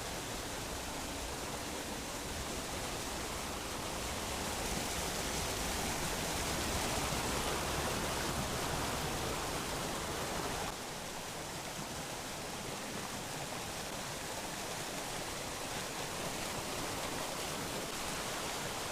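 Mountain stream rushing steadily over rocks. About eleven seconds in, the low rumble drops away suddenly and the water sounds slightly quieter.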